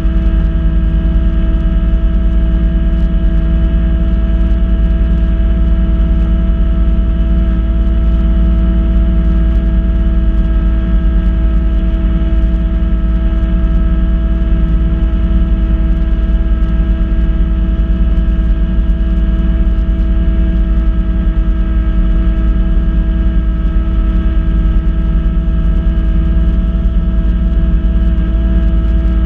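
Kubota B2650 compact tractor's three-cylinder diesel engine running steadily under load while powering a front-mount snow blower, a constant drone and whine that holds the same pitch throughout.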